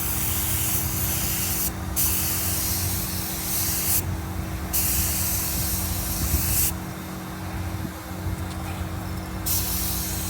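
Paint spray gun hissing as car body panels are sprayed, in four trigger pulls of one to two seconds each with short breaks between them, over a steady low hum.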